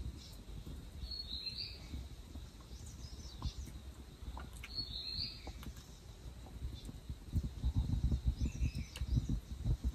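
Wild birds giving short chirping calls a few times, over a low rumbling background noise that grows louder about seven seconds in.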